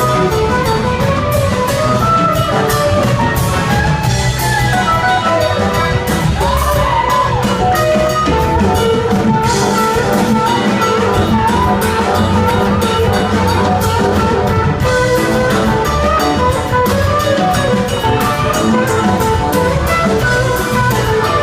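Live rock band playing an instrumental jam: electric guitar lead lines with bent notes over a steady drum kit, bass and keyboards.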